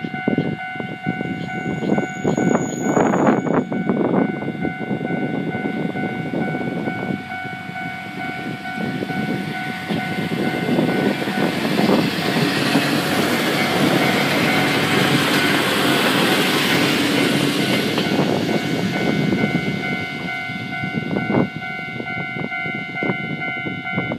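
A Kominato Railway diesel railcar runs past, its wheels clacking over the rail joints and the rumble swelling to its loudest midway. A level-crossing warning bell rings steadily throughout and stops at the end.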